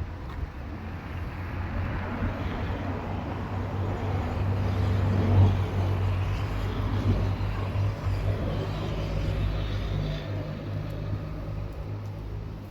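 A motor vehicle's engine close by, building to its loudest about five seconds in and then slowly fading, as a car passing.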